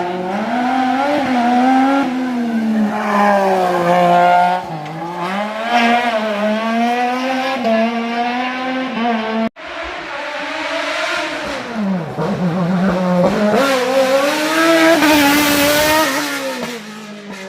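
Race car engine at full effort, its pitch climbing and dropping again and again as it accelerates and lifts through the slalom. It breaks off abruptly about halfway, then comes back and keeps rising and falling.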